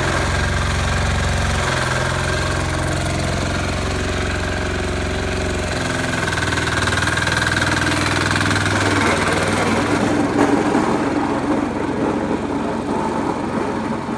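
Sears 8XL diesel engine running, with its note shifting about two seconds in and again about six seconds in, then growing louder and rougher near the end.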